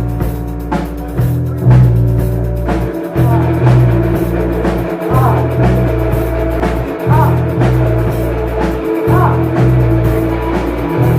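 Live rock band playing: drum kit hits over a low, held bass line whose notes change about once a second, with a wavering higher line above.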